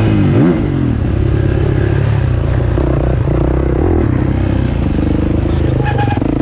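Motocross bike engine running, revs rising and falling, with a quick rev-up near the start.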